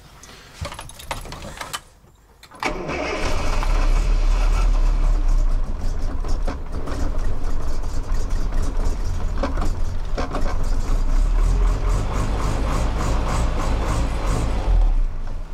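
Ex-military 24-volt Land Rover engine starting on freshly charged batteries. A few clicks come first, then about two and a half seconds in it fires and settles into a steady idle, heard from inside the cab.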